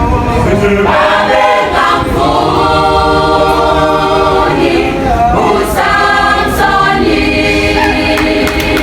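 A group of voices singing together, choir-style, holding long notes.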